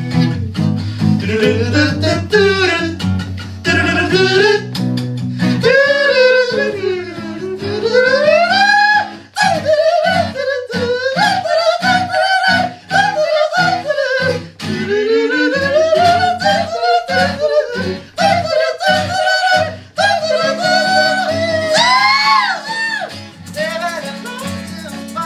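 Live pop-rock band playing: a voice sings wordless, gliding melodic runs with vibrato over guitar and band. Through the middle the band plays short stop-start chord hits.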